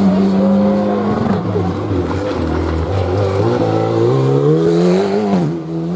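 Rally car engine under hard acceleration: the revs hold high, fall away about a second in, climb steadily for a couple of seconds, then drop sharply near the end and come straight back up, as at a gear change or lift.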